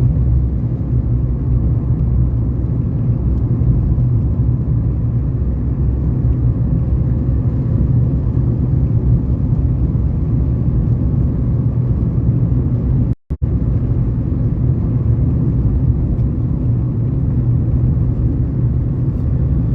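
Steady low rumble of a car driving along the road: engine and road noise. The sound drops out completely for a split second about thirteen seconds in.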